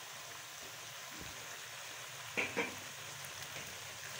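Oil sizzling steadily in a karahi around frying chicken pieces and freshly added chopped tomatoes, with a couple of brief clicks a little past halfway.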